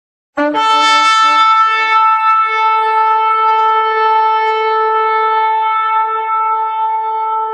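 A shofar blown, starting about half a second in: a brief wavering lower note leaps up into one long, steady, held blast.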